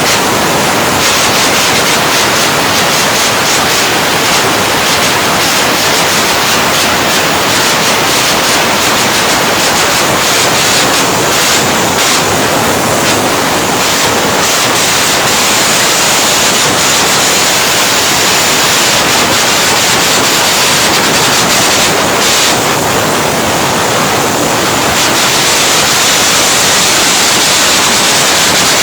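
Arc welding: the loud, steady crackling hiss of a stick-welding arc burning.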